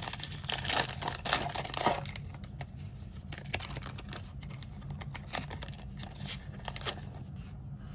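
Foil trading-card pack wrapper crinkling and being torn open by hand, with cards being handled. The crackling is busiest in the first two seconds, then thins to scattered crinkles.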